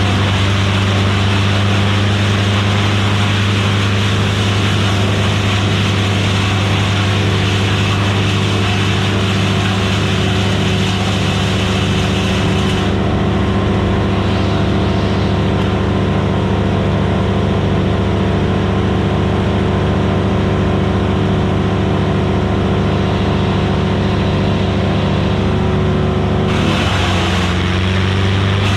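Vermeer BC1000XL wood chipper's gas engine running steadily at high speed. The engine's pitch sags briefly near the end, as if taking a load.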